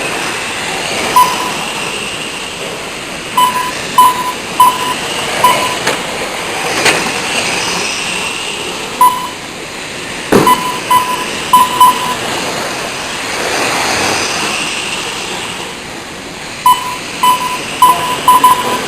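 Short electronic beeps from a lap-counting system, in quick clusters as sport trucks cross the timing line, over the steady whir of the racing trucks' motors rising and falling. Two sharp knocks, about seven and ten seconds in, sound like trucks hitting something.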